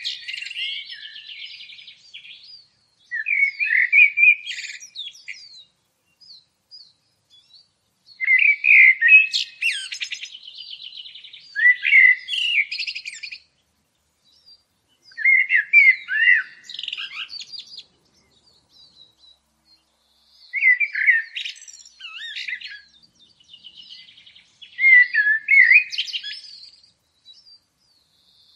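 A songbird singing in warbling, chirping phrases a few seconds long, with short pauses between them.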